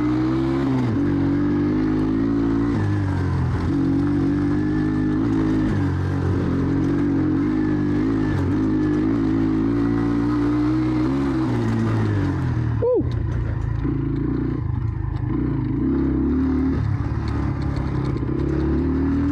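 Jawa 125 Dakar enduro motorcycle engine under way on a climb, its revs rising and falling with the throttle. About two-thirds through, the revs drop sharply for a moment and then pick up again.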